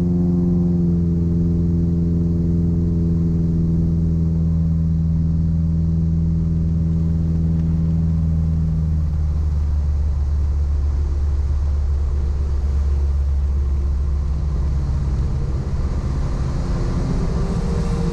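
Piper Apache running on one engine, a steady pitched drone. About halfway through the note fades as power comes back for landing, leaving a rougher low rumble.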